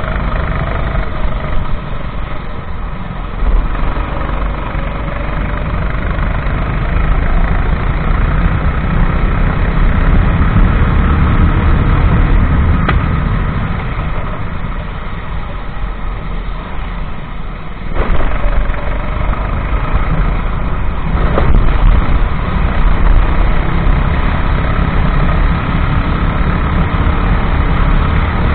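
Racing kart engine running hard throughout, its pitch rising and falling as the kart speeds up and brakes for corners. The engine gets quieter for a few seconds midway, then suddenly louder again.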